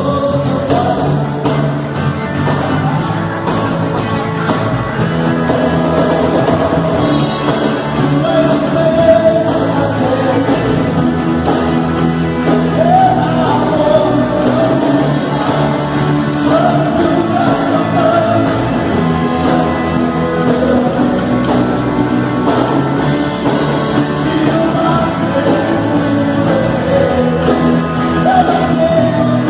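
Rock band playing a song with a lead singer.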